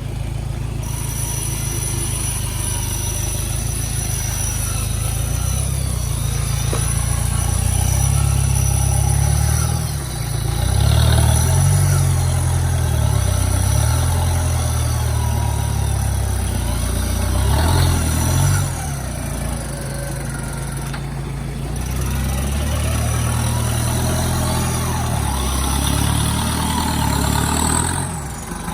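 Off-road vehicle engine running hard under changing load, its revs rising and falling again and again, with short lifts off the throttle about 10 and 19 seconds in. A steady high-pitched whine sounds over it.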